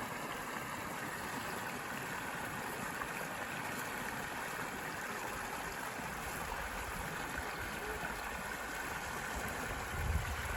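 A forest stream flowing with a steady rushing, gurgling sound. A low rumble comes in near the end.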